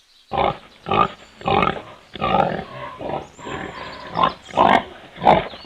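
An animal calling in a series of about eight short, rough, unpitched calls.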